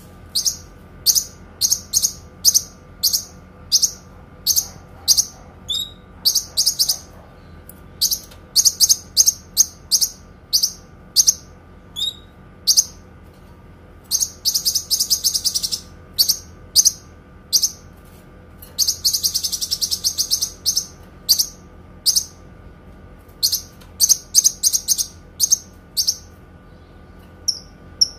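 Kinoi songbird singing: a long run of short, high, sharp chirps in quick succession, broken twice, about halfway and again about two-thirds through, by longer rapid trills. A faint steady hum lies underneath.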